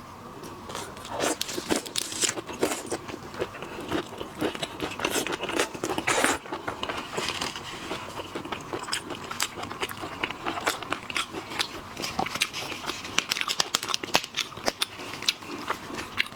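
Close-miked crackling and crunching of shrimp shells being cracked, peeled and bitten: a dense, irregular run of sharp clicks and snaps, busiest about a second in and again around five to six seconds.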